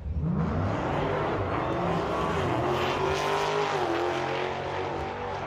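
A drag race car's engine at full throttle, accelerating hard down the track. The engine note comes in suddenly, climbs in pitch over the first couple of seconds, then levels off and dips slightly about four seconds in.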